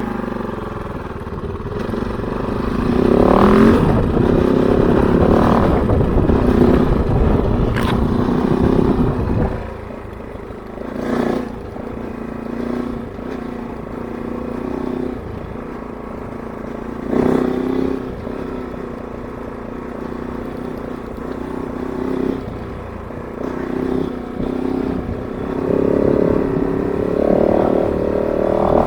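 Kove 450 Rally's single-cylinder engine being ridden off-road at a moderate pace, revs rising and falling with the throttle. It pulls hard for several seconds early on, eases off at about ten seconds, gives short bursts of throttle twice, and builds again near the end.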